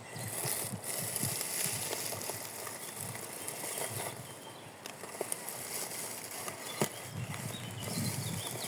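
Radio-controlled car crawling over forest ground and wood: a steady rustle of tyres on leaves and twigs, with scattered small knocks and clatters, one sharper click about seven seconds in.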